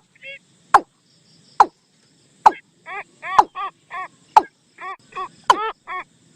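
Bird call recording played as a trapping lure for the นกตูม bird: short arched call notes come in quick runs, mixed with sharp clicks about once a second.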